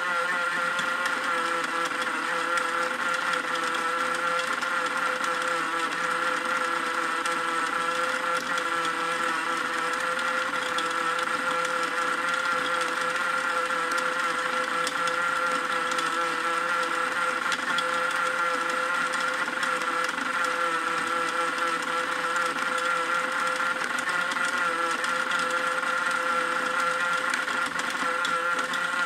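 Battery-powered toy washing machine's small electric motor running steadily: an even whir with a constant high whine that does not change in speed or pitch.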